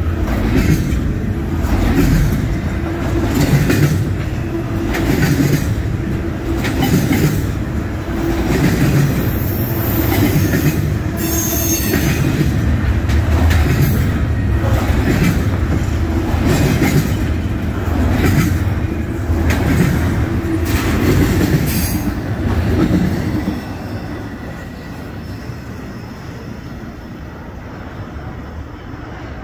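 Double-stack intermodal freight train's well cars rolling past close by: a steady rumble of steel wheels with rhythmic clacking over the rail joints and a few high-pitched wheel squeals. About three-quarters of the way through, the sound drops off as the end of the train passes and it moves away.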